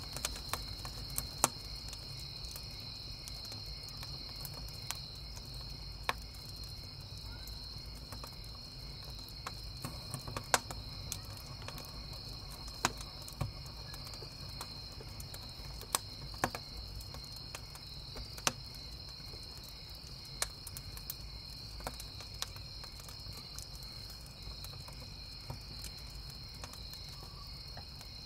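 Crickets chirping in a steady high trill, with wood crackling in a campfire: sharp scattered pops every second or two over a low steady rumble of the fire.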